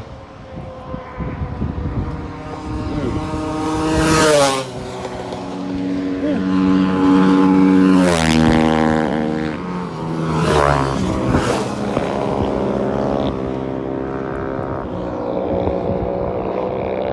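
Motor vehicles passing one after another on a main road, their engine notes rising in pitch as each approaches and falling as it goes by, with loud passes about four, eight and eleven seconds in.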